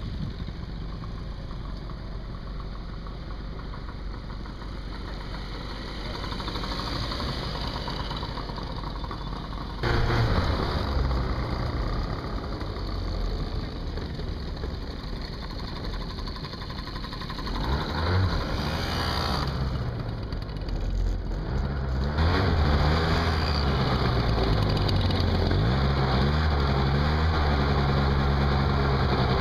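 Small engines of vintage mopeds and motorcycles: machines running on the road at first, then, after a sudden change about ten seconds in, engines running close by and being revved up and down, settling into a steady run near the end.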